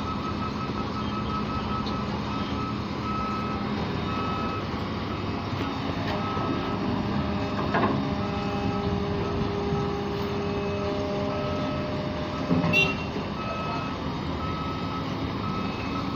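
A vehicle's reversing alarm beeping in a regular on-off pattern over a steady engine running, with a knock about halfway and a louder short clatter about three-quarters of the way in.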